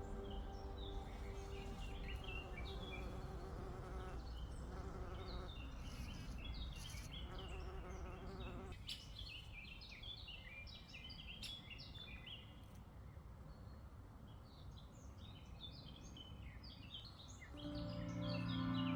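Small birds chirping and twittering, with an insect buzzing on and off over a low wind rumble; the buzz drops away about halfway through and comes back louder near the end.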